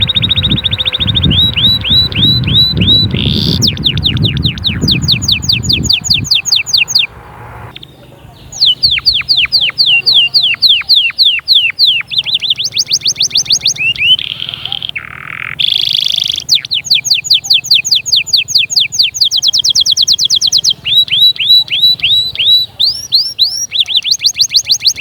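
Domestic canary singing a fast song of rolling trills, each run a quick series of repeated high notes at its own speed, with a short break partway through. A low rumbling noise lies under the first few seconds.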